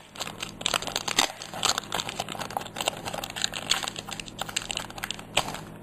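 Foil Pokémon booster pack wrapper crinkling as it is handled and torn open, a dense run of quick crackles and clicks.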